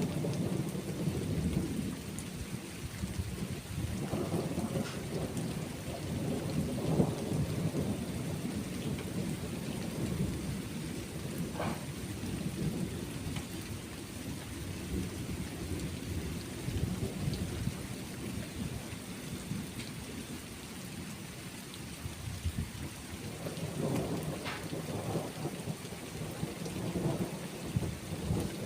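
Thunderstorm: steady rain with low rolling thunder that swells and fades, louder in the first few seconds and again near the end.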